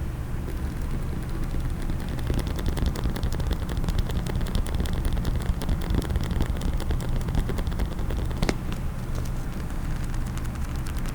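Rapid, dense tapping on a case: many light clicks a second, with one sharper click about eight and a half seconds in, over a steady low rumble.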